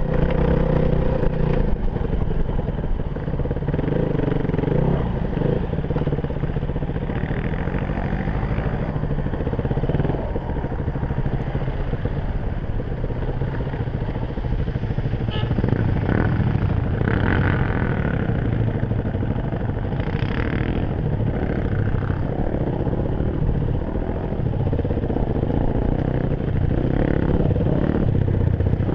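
Enduro dirt bike engine running while riding over rough ground, its pitch rising and falling as the throttle is opened and closed.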